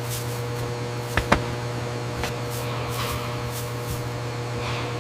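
Steady mechanical hum with a hiss, and two sharp clicks in quick succession a little over a second in.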